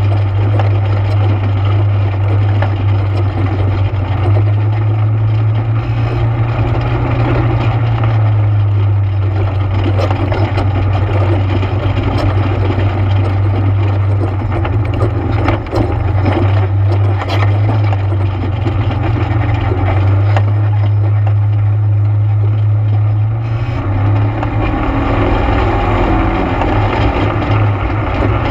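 ATV engine running steadily under way, with a strong low hum and scattered knocks and rattles. The engine note changes about three-quarters of the way through.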